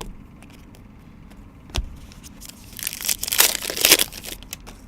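A trading-card pack wrapper being torn open and crinkled, after a single knock just under two seconds in.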